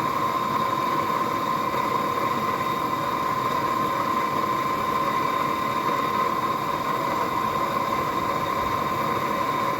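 Forge running: a steady rushing noise with a constant high whine, no hammer blows.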